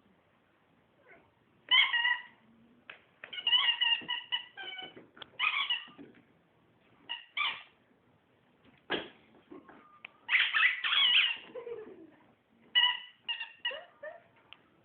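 Squeaky toy hedgehog squeezed again and again by a dog's bite: short, high squeaks, some coming in quick runs, with pauses between.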